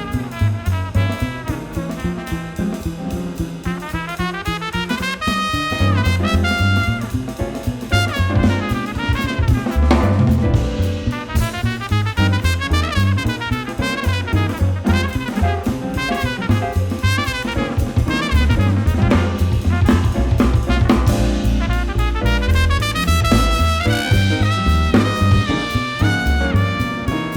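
Live jazz: a brass horn plays fast runs sweeping up and down in pitch over drum kit and bass.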